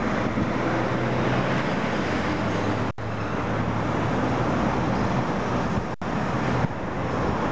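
Motorcycle engine, a 400 cc parallel twin in a Honda CB250T, running at a steady idle. The sound breaks off for an instant twice.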